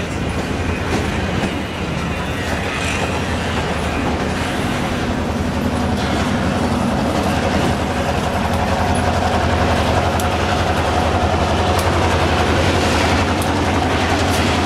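A train rolling by on the tracks: a steady low hum of locomotive power with wheels clicking over the rail joints, growing slightly louder.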